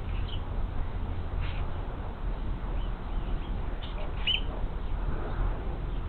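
A few short, high bird chirps over a steady low outdoor rumble, the clearest chirp about four seconds in.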